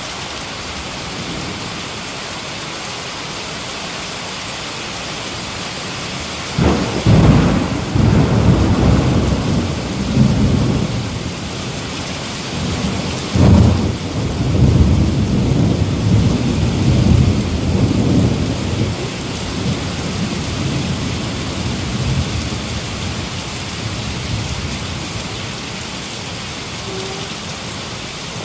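Heavy rain falling steadily with thunder: a sudden thunderclap about seven seconds in rolls on as a low rumble, a second sharp crack comes about halfway through, and the rumbling fades back under the rain over the next several seconds.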